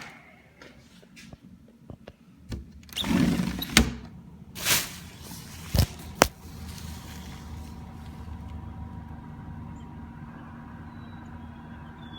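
A few clicks and knocks and two brief rushing sounds, like a door or window being opened, then a truck's engine idling steadily with a low, even hum.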